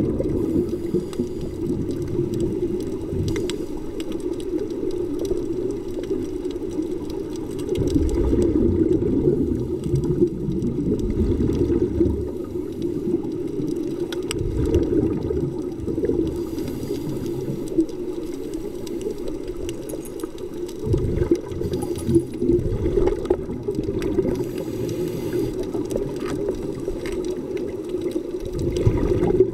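Underwater sound of a scuba diver breathing through a regulator: a low rush of exhaled bubbles every several seconds, with brief hisses between, over a steady muffled hum.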